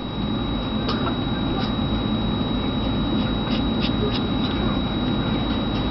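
Steady room and recording noise with a constant high electronic whine, and a few faint, brief clicks scattered through it.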